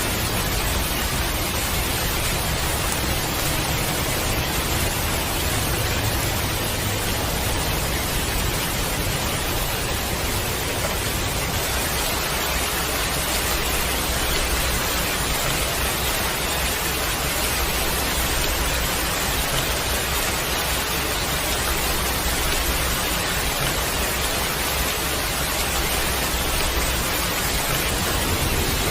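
Heavy rain falling steadily: a dense, even hiss with no distinct drops.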